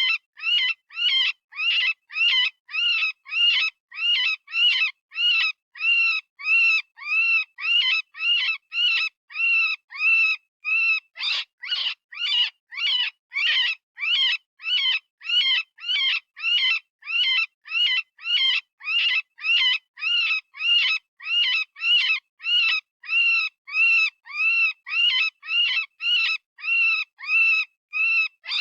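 Rabbit distress call, synthesized: short, high-pitched screams repeated about twice a second in a steady, unbroken series, each cry rising and falling in pitch.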